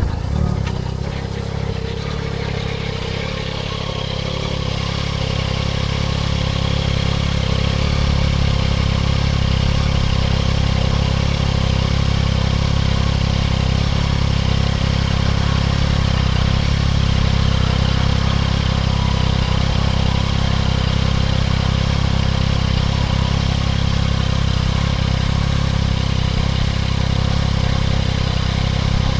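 Yamaha MT-09 SP's crossplane inline-three engine running at a steady speed through a Spark full aftermarket exhaust, growing a little louder about six seconds in.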